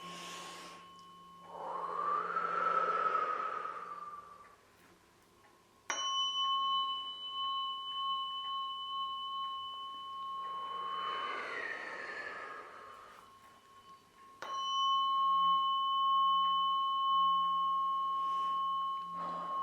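Tuning fork struck twice, about six seconds in and again near fifteen seconds, each time ringing on with a steady high tone and a fainter higher overtone. Two soft breathy swells come before the strikes.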